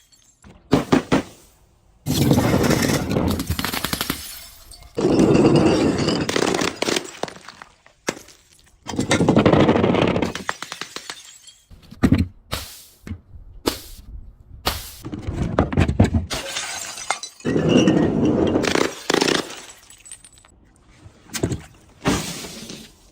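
Objects being crushed and breaking, with glass shattering, in a series of separate crunching stretches of one to three seconds each that start and stop abruptly.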